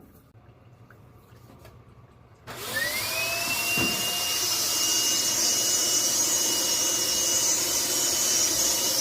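Hoover upright vacuum cleaner switched on about two and a half seconds in. Its motor whine rises in pitch as it spins up, then runs steadily over a loud rush of air drawn through the attached dryer-vent cleaning hose.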